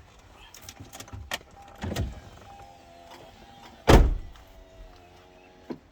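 A few sharp clicks and knocks, then a heavy thump about four seconds in, like a car door shutting. Two drawn-out bleats sound between them.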